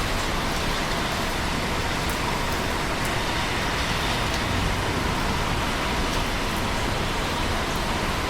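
Steady rain falling: an even, unbroken hiss of rainfall with faint scattered drop ticks.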